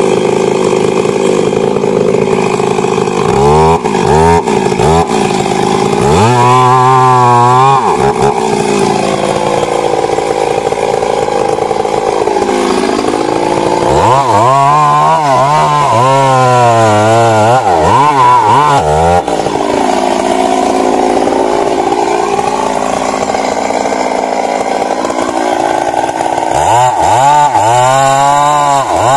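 Stihl MS 382 two-stroke chainsaw running and cutting wood, its engine speed rising and dipping repeatedly. Three spells of wavering, shifting revs come about a few seconds in, around the middle, and near the end, with steadier running between them.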